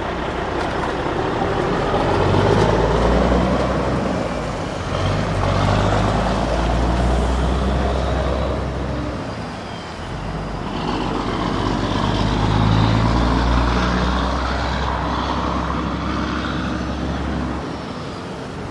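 Motor-vehicle engine sound running through a toy dumper tug-of-war, with a low drone that swells twice and eases off about ten seconds in, then drops away shortly before the end.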